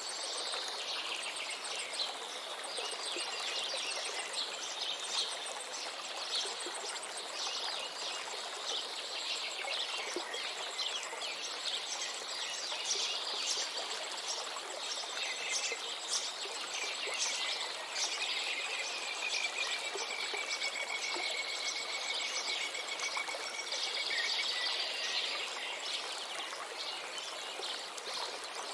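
Many small birds chirping and singing over the steady rush of a flowing river, with a long even trill about two-thirds of the way through.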